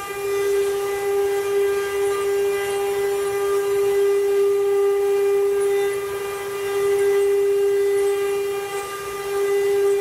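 CNC wood-carving machine's router spindle running at a steady high-pitched whine, its loudness swelling and dipping gently.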